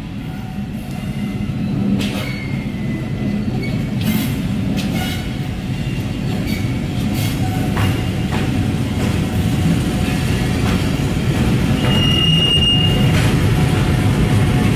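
Diesel locomotive hauling a train of tank wagons past: a steady low engine and wheel rumble that grows louder as it draws level, with scattered clicks and a brief high squeal about twelve seconds in.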